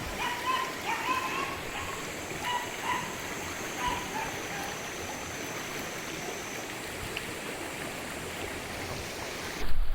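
Steady rushing of flowing water, with a string of short high-pitched squeaks during the first few seconds.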